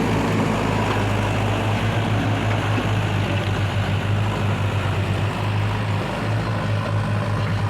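JCB 3DX backhoe loader's diesel engine running steadily at a constant pitch.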